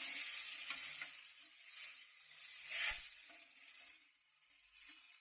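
Whole scramberries (lovi-lovi) sizzling softly in hot oil in a clay pot as a ladle stirs them with salt. A few scraping strokes of the ladle come through, the strongest about three seconds in, and the sizzle dies down toward the end.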